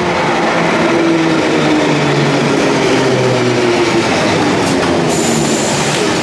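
London Underground train running, a loud rumble with whining tones that slide slowly in pitch. A thin high squeal joins about five seconds in.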